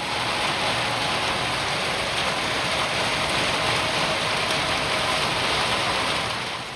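Heavy rain falling in a steady, dense hiss, which fades in and drops away near the end.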